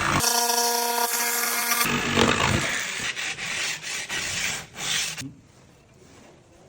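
Wooden parquet strip being cut and shaped. A steady humming tone runs for the first second and a half, then comes a run of irregular scraping strokes that stops about five seconds in.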